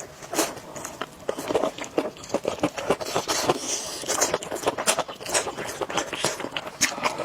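Close-miked eating sounds of a person eating spicy noodles: chewing and wet mouth noises with many irregular small clicks and smacks.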